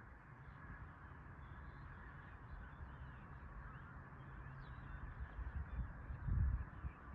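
A large flock of birds calling together, a dense distant chatter with scattered higher chirps, over a low steady rumble that swells briefly about six seconds in.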